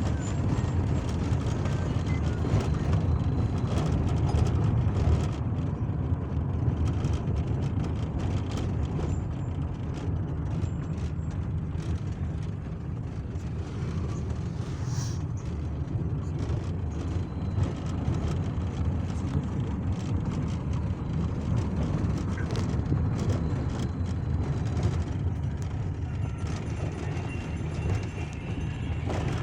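Steady low rumble of engine and road noise from a moving car.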